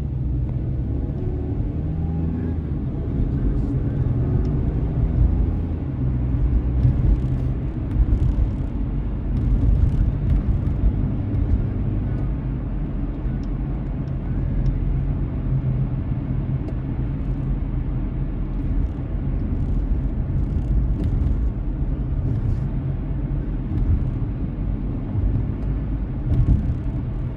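Car driving, heard from inside: a steady low rumble of road and engine noise. The engine's pitch rises in the first second or so as the car accelerates. Faint scattered ticks sound over the rumble.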